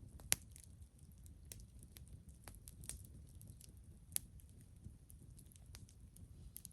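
Campfire crackling: irregular sharp pops and snaps of burning wood over a low rumble, with two louder pops, one just after the start and one about four seconds in.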